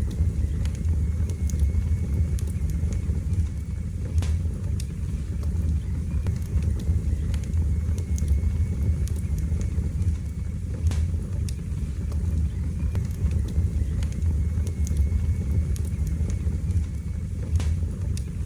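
Wood fire burning in a fireplace: a steady low roar of the flames with scattered sharp crackles and pops from the burning logs, a few louder pops standing out.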